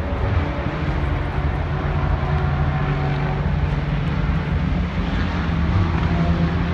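Engines running with a steady low drone, no clear revving or pass-by.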